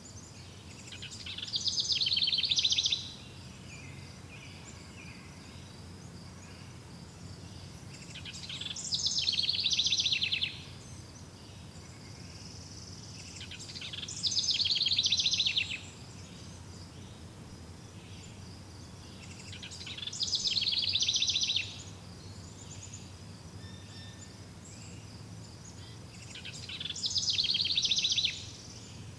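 A songbird singing the same fast trilled phrase five times, about every six seconds; each phrase swells in loudness for a second or two and then stops abruptly. Beneath it runs a faint steady high buzz, like insects, over a low ambient rumble.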